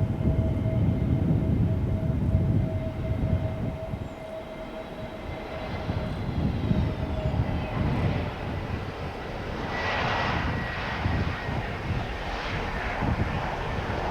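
Jet airliner's engines on landing approach: a steady whine over a low rumble, the whine's pitch dropping a little about halfway through as the plane passes.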